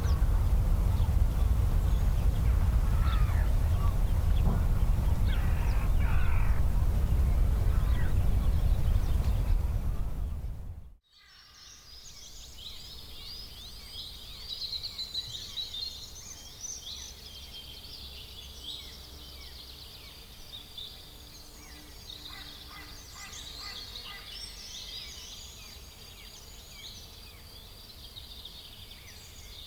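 A steady low rumble with a few bird calls over it for about ten seconds, which cuts off abruptly. Then comes a dense chorus of small birds chirping and twittering over quieter background noise.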